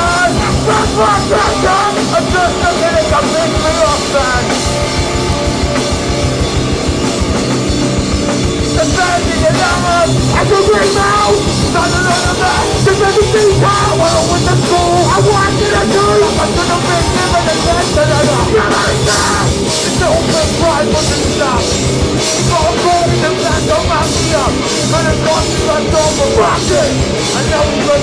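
Live hardcore band playing loudly: heavily distorted guitars and bass over fast, dense drumming, with the cymbals coming in harder about two-thirds of the way through.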